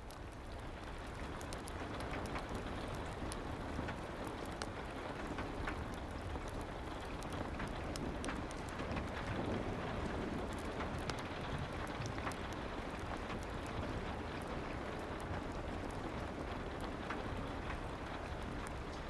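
Soft steady rain mixed with a crackling fireplace, sharp pops scattered irregularly through the hiss. It swells up over the first couple of seconds, then holds steady.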